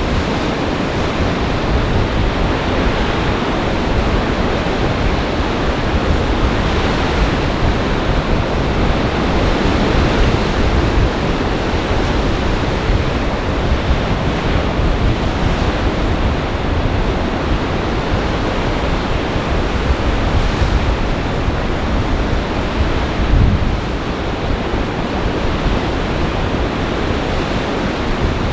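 Storm surf breaking and churning on a large lake in gale-force wind, with gusts buffeting the microphone in a steady, heavy rumble. One louder surge comes about three-quarters of the way through.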